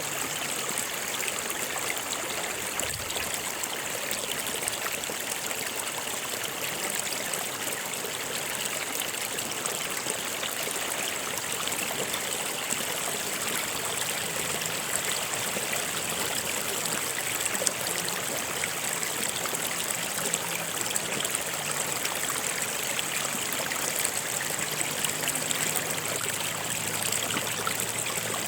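Stream water running steadily, with a high hiss and many small splashes and trickles.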